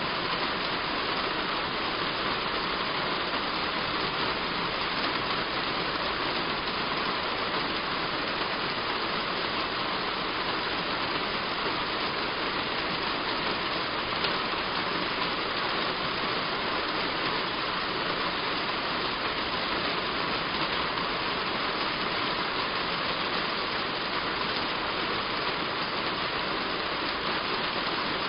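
Heavy rain falling steadily on a roof, an even hiss with no let-up.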